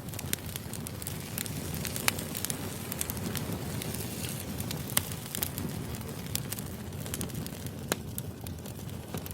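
Burning firewood crackling and popping over a low steady rumble of flame, with sharper pops about 2, 5 and 8 seconds in.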